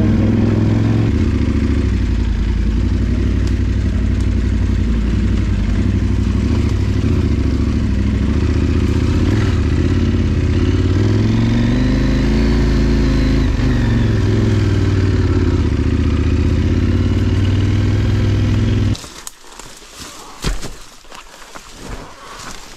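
KTM Adventure motorcycle's parallel-twin engine running steadily while riding, the revs rising and falling once about halfway through. About nineteen seconds in the engine sound cuts off suddenly, leaving only quieter scattered clicks and knocks.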